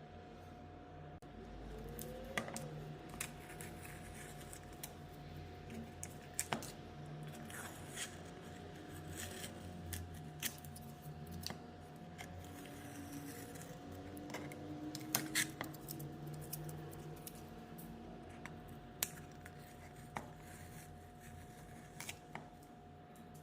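Irregular small clicks and light knocks, as of tools or objects being handled, spaced a second or two apart, over a faint steady hum.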